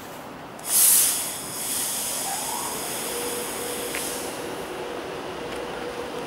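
Virgin Pendolino (British Rail Class 390) electric train starting to pull away. A sudden loud burst of air hiss comes about a second in, then a steadier hiss with a short rising whine and a steady electric hum as the train moves off.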